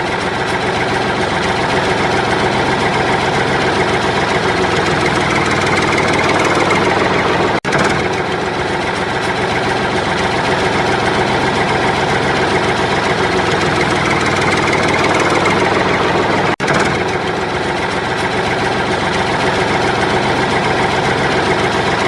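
Steady engine-like motor running with a rough, even drone, cut off briefly twice, about eight and seventeen seconds in.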